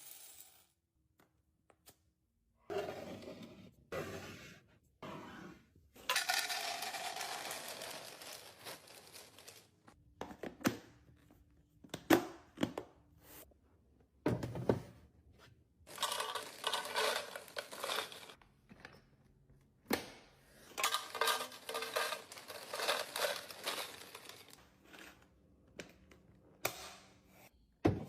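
Plastic food packaging crinkling and rustling in several bursts, with a few sharp knocks of items being set down.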